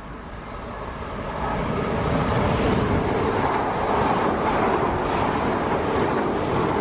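A train approaching and running through the station without stopping: a rumble that grows louder over the first two seconds, then holds steady.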